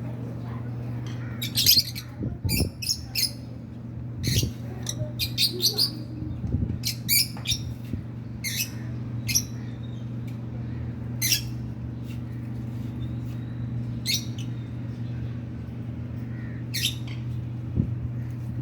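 Rosy-faced lovebirds giving short, sharp chirps and squawks every second or so, some in quick runs of several, over a steady low hum.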